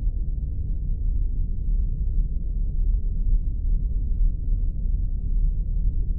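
Sci-fi spaceship ambience sound effect: a steady, deep rumbling drone with a faint steady hum above it.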